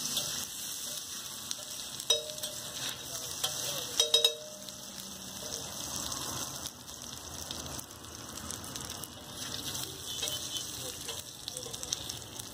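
Boiled egg pieces frying in oil on a flat griddle, a steady sizzle. A metal spatula clinks sharply against the griddle about two seconds in and a few times around four seconds.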